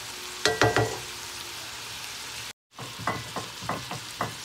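Mushrooms, artichoke hearts and onions sizzling steadily in a skillet, with a spatula knocking and scraping against the pan: a quick cluster of clicks about half a second in and a few separate knocks in the second half. The sound cuts out for an instant just past halfway.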